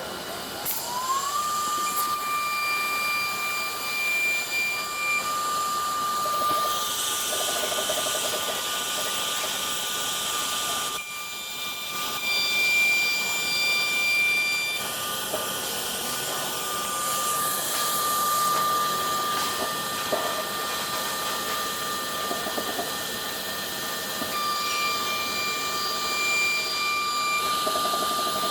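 Single-head woodworking CNC router spindle winding up with a rising whine over about the first second, then running at a steady high whine while the bit cuts into MDF, with stretches of hissing cutting noise that come and go.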